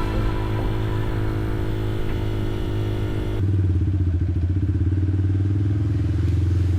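Motorcycle engine running steadily. About three and a half seconds in, the sound changes abruptly: the hiss drops away, leaving a low engine note with a fast, even pulse.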